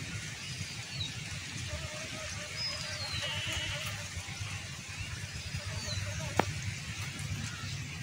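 A bird repeats a short, high, falling whistle every two to three seconds over a steady low rumble. There is a single sharp click about six seconds in.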